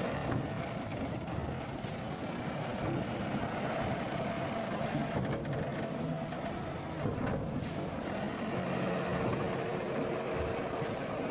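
Heavy diesel earthmoving machinery running steadily under work, with a few short sharp knocks.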